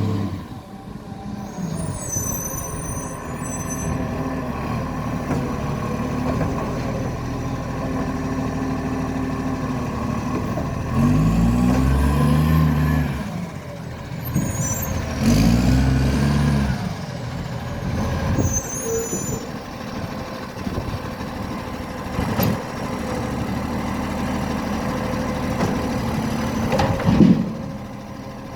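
Garbage truck diesel engine running, revving up and back down twice, with a bad exhaust leak. Short bursts of air hiss and a couple of sharp knocks come in between.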